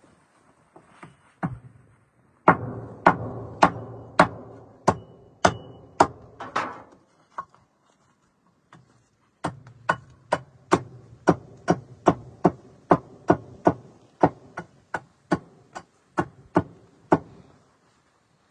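Repeated sharp strikes of a tool on something solid, about two a second, each with a short ring, in two runs with a pause of about two seconds between them.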